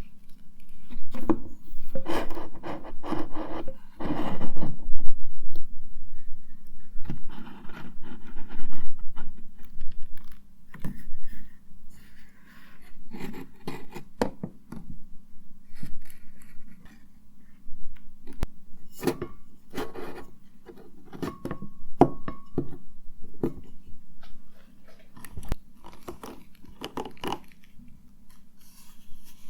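Cosmetics and their containers being handled and rummaged through: irregular scraping, rubbing and rustling, with many sharp clicks and knocks.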